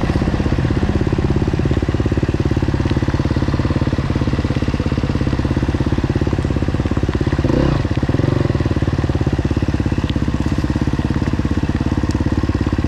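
Enduro dirt bike engine running at low revs with an even, rapid pulse, blipped briefly about seven and a half seconds in.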